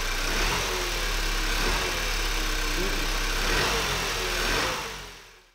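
2013 Volkswagen Jetta GLI's 2.0-litre TSI turbocharged four-cylinder idling steadily, freshly restarted with a new intake manifold and judged to be running right. It fades out near the end.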